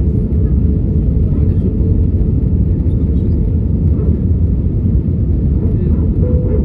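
Steady low rumble of an Airbus A320 on its approach to land, with a faint steady hum above it.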